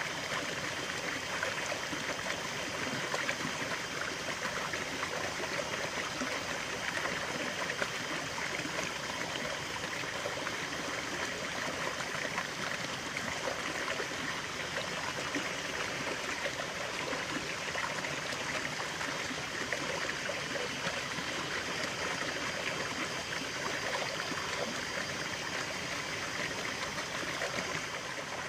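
A small stream of running water, flowing and trickling steadily with a bright, splashy babble.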